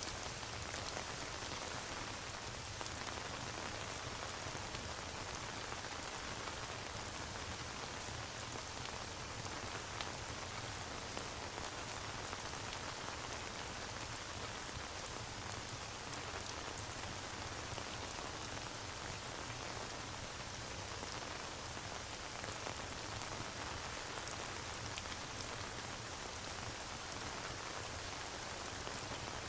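Steady rain ambience: an even hiss of falling rain with scattered small drop ticks, unchanging throughout.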